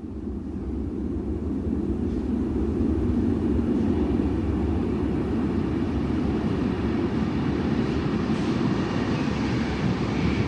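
Train running with a steady low rumble, fading in over the first few seconds and then holding steady.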